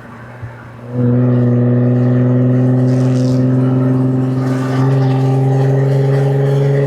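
Jaguar F-Type V6 S's supercharged 3.0-litre V6 and exhaust, heard from inside the car: quieter for about the first second, then pulling hard on the throttle, its pitch climbing slowly as the car accelerates through a gear.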